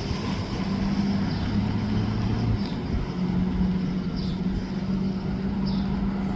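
Train passing: a steady low rumble with a steady engine hum.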